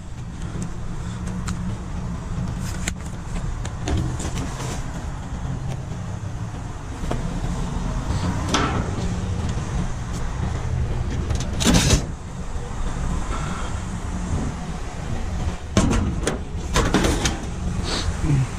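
Junk being moved about in a dumpster: a handful of sharp knocks and clatters, the loudest about twelve seconds in, over a steady low rumble.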